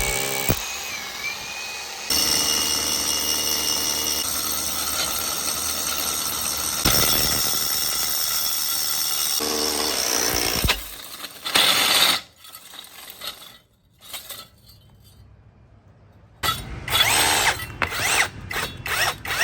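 Yamasu MBT26P cordless SDS Plus rotary hammer drill running on test, its steady motor sound shifting pitch a few times before it drops off after about ten seconds. Near the end it comes in short repeated bursts.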